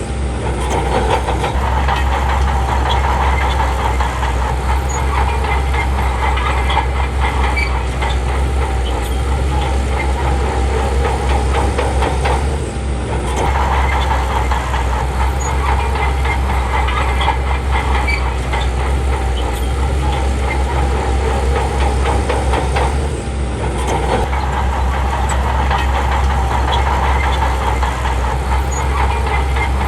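Crawler bulldozer working, its heavy diesel engine running steadily under a constant clatter of machinery. The sound eases off briefly twice, about 13 and 23 seconds in.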